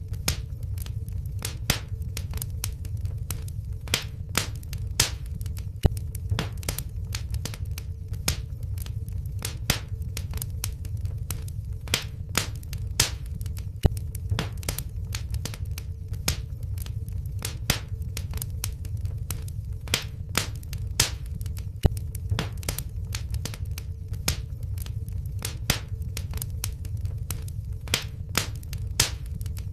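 Wood fire burning in a fireplace, crackling with irregular sharp pops several times a second, a few louder than the rest, over a steady low rumble of the flames.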